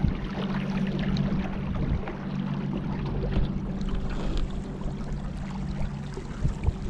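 A small boat's motor running steadily on the river, with water rushing and splashing along the hull.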